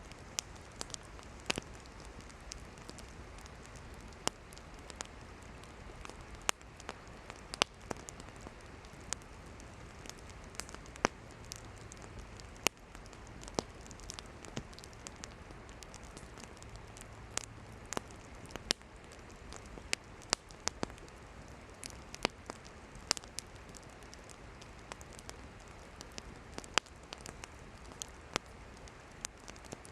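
Wood campfire burning with a steady hiss and irregular sharp crackles and pops from the burning firewood.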